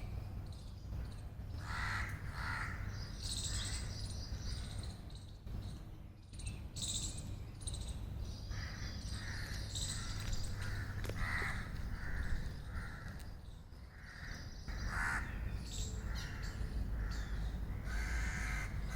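Birds calling: runs of short, harsh repeated calls mixed with higher chirps, over a steady low rumble.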